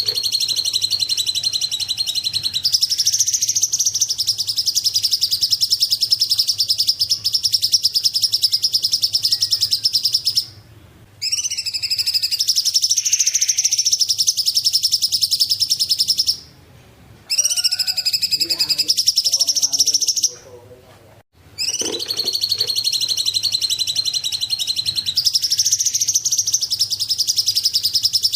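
Cungkok bird singing long, high-pitched, rapidly pulsing trills, broken by three brief pauses.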